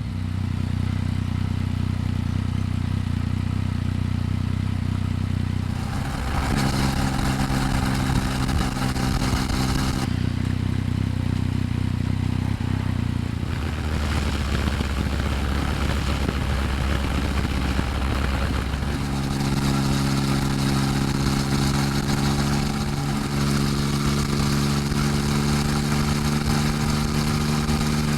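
Exhaust note of a Yamaha MT-09 with an SP Tadao aftermarket muffler, heard close at the muffler while under way. The engine holds a steady drone and steps to a new steady pitch about six, ten, thirteen and nineteen seconds in.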